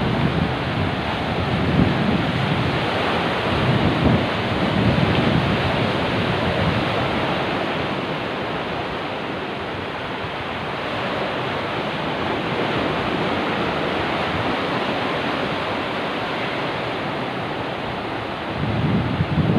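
Rough sea surf and breaking waves, a continuous wash of noise, with wind buffeting the microphone in heavy rumbling gusts at the start and again near the end.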